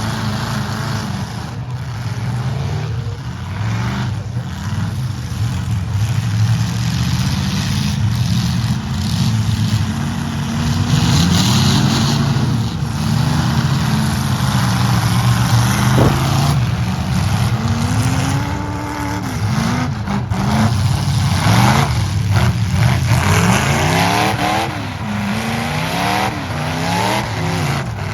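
Several demolition derby trucks' engines running and revving hard, their pitch rising and falling over one another, with a few sharp knocks from the second half onward.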